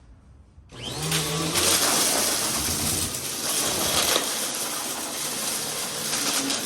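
Vacuum cleaner cutting in loudly under a second in and running, its motor hum wavering as it is pushed, with scattered sharp clicks of debris being picked up.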